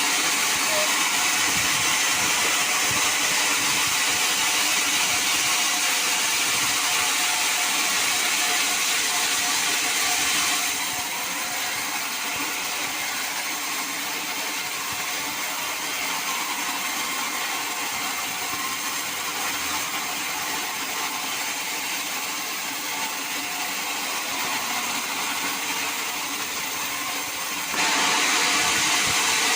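Sawmill saw running steadily through teak wood. The noise is louder for about the first ten seconds and again near the end, and drops to a lower steady level in between.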